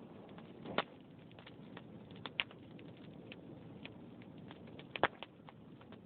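Log fire crackling: a low steady rustle of burning wood with scattered sharp pops, the loudest about a second in and another just after five seconds.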